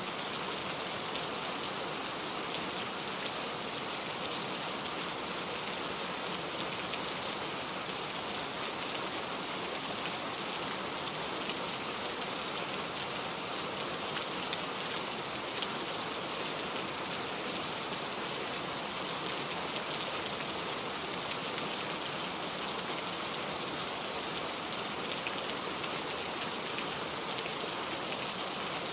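Steady rain falling, an even hiss of many drops with faint scattered ticks of single drops.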